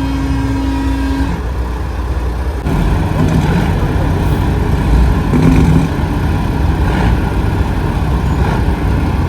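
Big-rig trucks' engines rumbling as they pass, with a truck horn held for about a second at the start. The engine noise gets louder about three seconds in.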